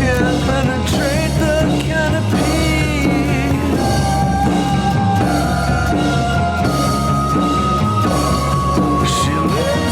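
Psychedelic rock song: a drum kit keeps a steady beat under a wavering melody line, which gives way to long held high notes about halfway through.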